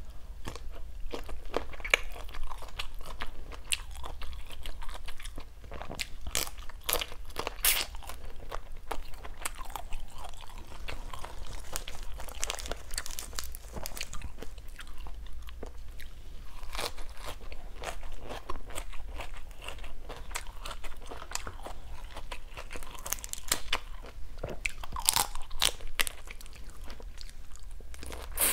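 Eating salt-and-chili grilled shrimp with lettuce leaves: a steady run of crunching bites and chewing, with sharp irregular crunches throughout.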